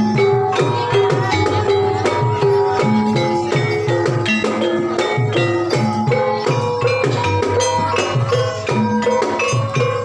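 Banyumasan gamelan music: struck keyed instruments play held, repeating notes over a steady, dense run of drum and percussion strokes.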